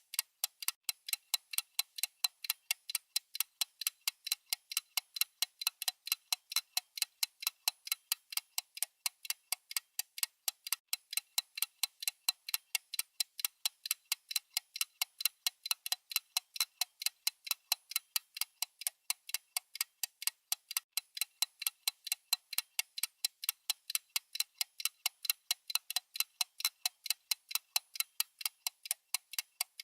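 Clock-ticking sound effect: a fast, unbroken run of even, sharp ticks, thin and without any low end, the steady ticking track of a countdown timer.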